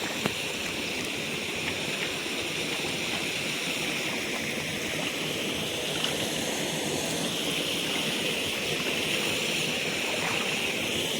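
Steady rush of stream water pouring over a small dam, a continuous even hiss.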